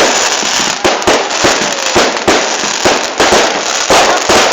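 Fireworks going off in rapid succession: loud, irregular bangs several times a second over continuous crackling.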